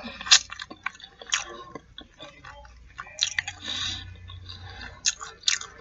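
A person chewing food close to the microphone: irregular wet mouth smacks and sharp clicks with bites, typical of mukbang eating sounds.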